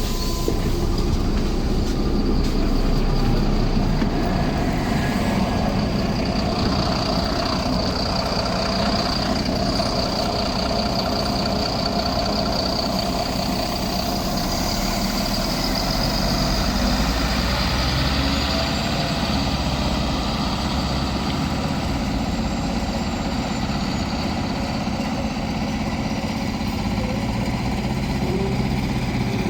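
MAZ-107 city bus under way, heard from inside: steady engine and road noise, with a faint high whine from about four seconds in until the middle.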